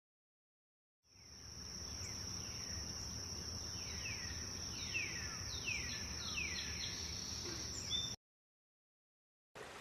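Outdoor nature ambience: a steady high-pitched insect trill with a bird calling a series of short, falling whistled notes over a low background rumble. It starts about a second in and cuts off suddenly near the end.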